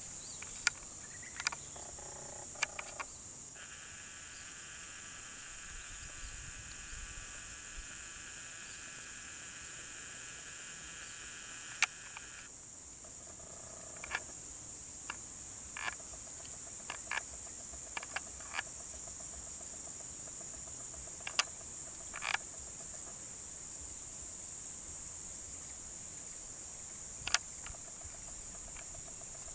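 Steady high-pitched insect chorus of crickets or cicadas. A second, lower buzzing chorus joins for about nine seconds early on and stops abruptly. Scattered sharp clicks and snaps run through it.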